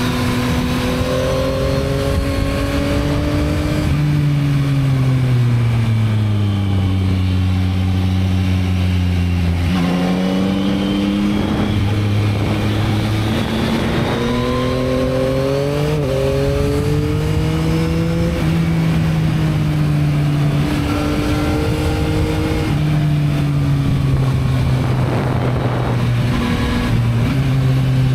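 2022 Yamaha MT-09's 890 cc three-cylinder engine on its stock exhaust, running under way with wind noise. The engine note falls and holds low for a few seconds, then picks up and climbs again around the middle, easing and rising a few more times as the bike slows and accelerates.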